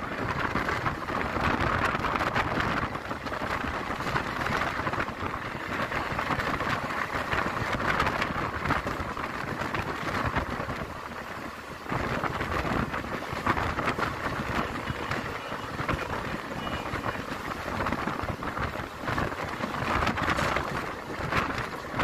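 Passenger train running along the line, a steady rush of wheel-on-rail noise and wind, heard from an open coach window, easing briefly about two-thirds of the way through.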